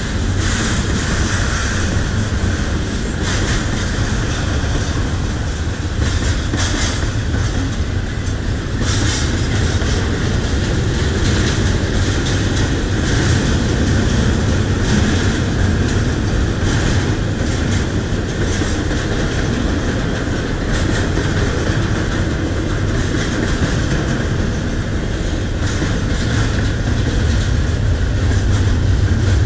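Double-stack intermodal container cars of a freight train rolling past: a steady rumble of steel wheels on the rails, with scattered clicks over the rail joints.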